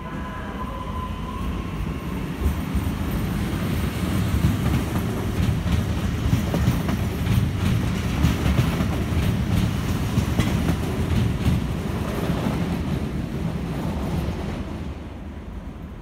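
PESA Elf electric multiple unit passing close by: a low rumble of wheels on rails with repeated clicks over the rail joints. It builds as the train approaches, is loudest in the middle and fades near the end as it pulls away.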